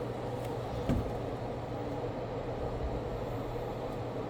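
Steady low mechanical hum with a hiss, with one faint knock about a second in.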